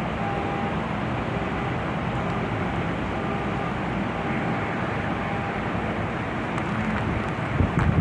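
Steady rain, an even hiss that holds at a constant level.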